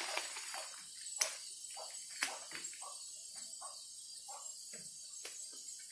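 Faint background sound during a pause: a steady high-pitched hiss or chirring with short faint sounds scattered through it, and two sharp clicks about one and two seconds in.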